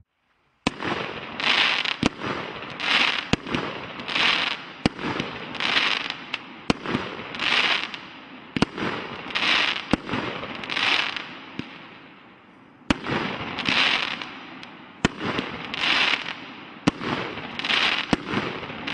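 Fireworks going off in quick succession: sharp reports, each followed by a spreading crackle that swells and fades, about one a second. Near two-thirds through the run dies away for about a second, then starts again.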